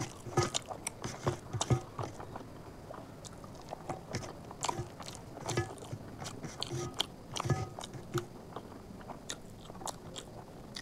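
A person chewing a mouthful of chicken curry and rice close to the microphone: many short, irregular mouth clicks and smacks.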